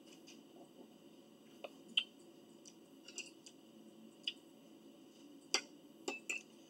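Faint chewing sounds from eating pizza: a few scattered soft mouth clicks and smacks over quiet room hum.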